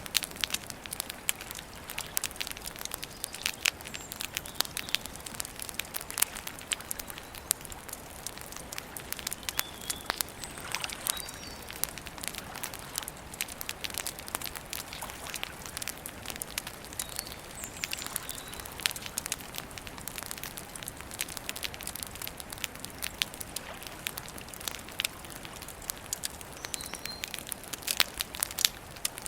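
Wood campfire crackling steadily, with frequent sharp irregular pops and snaps over a soft hiss of burning.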